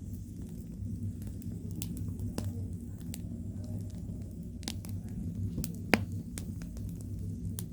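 Pork belly grilling on a cauldron lid over a wood fire: scattered crackles and pops over a steady low rumble, with one loud pop about six seconds in.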